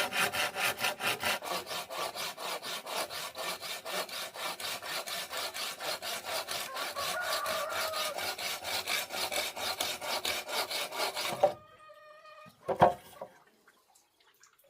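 Hand saw cutting with quick, even rasping strokes, about five a second, that stop about eleven and a half seconds in. A short ringing tone and a single sharp knock follow.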